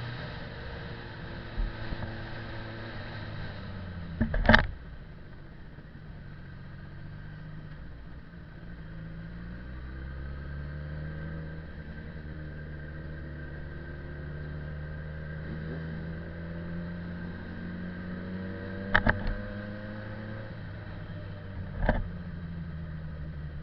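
Motorcycle engine running at changing speed, its pitch sagging and then climbing again. There are three sharp knocks: one a few seconds in and two near the end.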